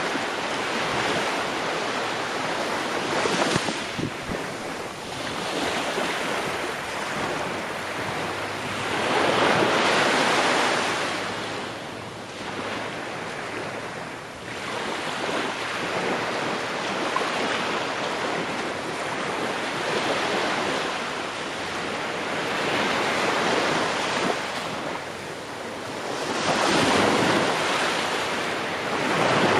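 Ocean surf: waves breaking and washing in, the rushing noise swelling and falling back every few seconds. It is loudest about a third of the way in and again near the end.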